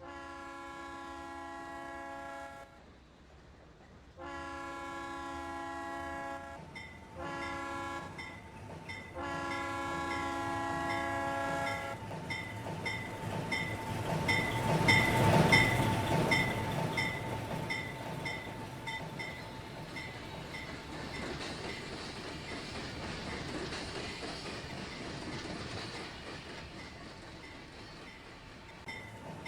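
Doubleheaded Pennsylvania Railroad steam locomotives 7002 and 1223 passing. A chime steam whistle blows the grade-crossing signal, long, long, short, long. The train then rolls by with its bell ringing in an even rhythm, loudest about halfway through and fading after.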